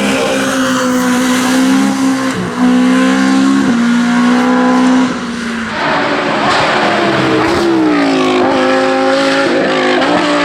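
Racing car engine at full throttle on a hillclimb, held at high revs with small steps in pitch between gears. It eases off about six seconds in, then climbs in pitch again as it accelerates.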